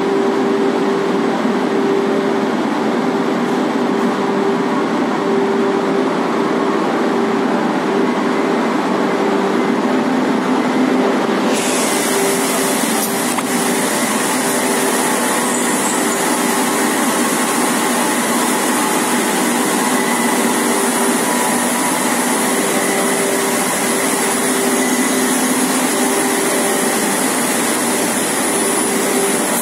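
Nonwoven fibre production line machinery running with a steady mechanical hum and a held tone. About eleven seconds in, a high hiss joins and continues.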